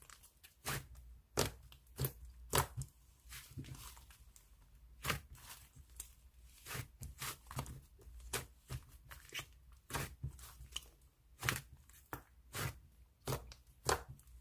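Slime being squeezed and pressed by hand, giving irregular sharp clicks and pops, about one or two a second.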